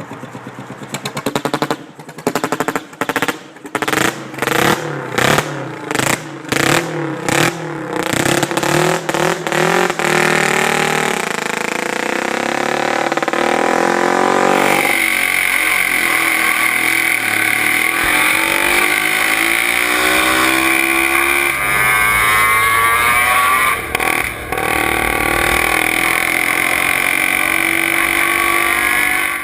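DKW SS250 water-cooled split-single two-stroke motorcycle engine, revved in a string of short throttle blips. About halfway through the sound changes to the engine running continuously, its revs climbing and dropping.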